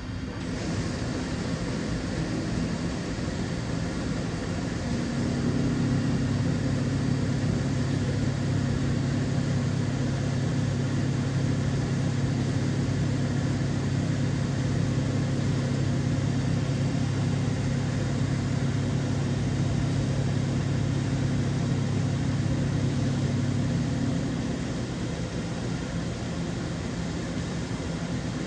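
DVF 5000 five-axis CNC mill running in its enclosure: a steady mechanical hum that grows louder and deeper about five seconds in, holds for most of the time, and drops back a few seconds before the end.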